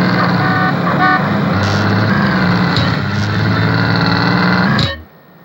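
Chevrolet Nova engine running steadily at a loud level, then cutting off abruptly near the end.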